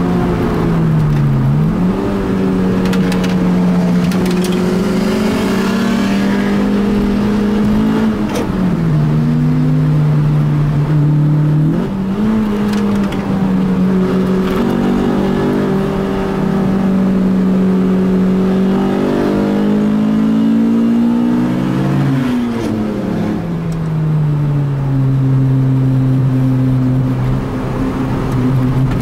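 Car engine heard from inside the cabin, driven hard: its note climbs under acceleration and drops back again and again with gear changes and lifts off the throttle, with a long fall after a climb about two-thirds of the way in.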